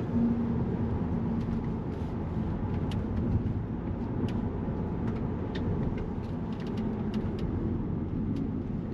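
Volkswagen Passat being driven, heard from inside the cabin: a steady low engine and road rumble. A faint whine eases off in the first couple of seconds, and a few light ticks are scattered through it.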